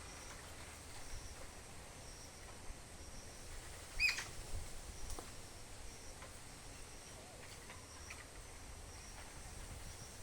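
Outdoor nature ambience: faint high insect chirping that pulses on and off about once a second, with a single short, sharp bird call about four seconds in and a few fainter calls after it.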